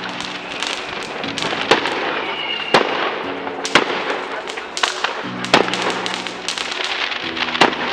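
Fireworks going off: a continuous crackle of many small reports, with a sharp louder bang about once a second.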